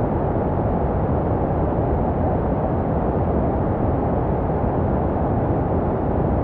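Steady, even rushing noise with no changes, deep rather than hissy: a low-heavy white-noise track for infant sleep, made to resemble the sounds a baby hears in the womb.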